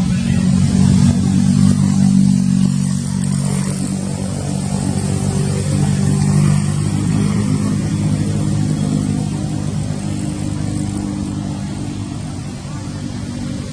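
An engine running steadily with a low hum, easing a little in level over the last few seconds.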